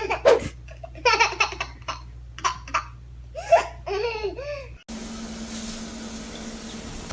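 A baby laughing in repeated bursts of belly laughter. About five seconds in it cuts off suddenly, and a steady hiss with a low hum takes over.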